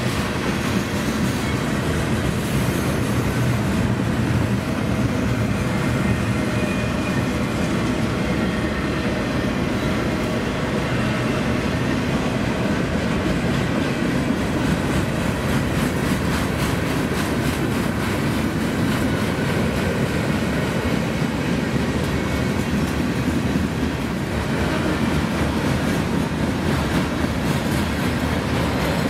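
Freight train cars rolling past: steady wheel-on-rail noise with a clickety-clack over the rail joints.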